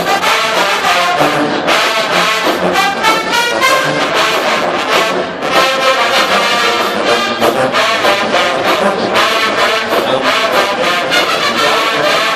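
HBCU marching band playing loud, brass-heavy music, with trombones and trumpets over a steady drum beat.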